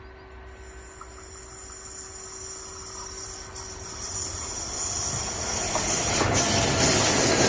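Train approaching on the railway line, its noise swelling steadily from faint to loud, with a rising hiss.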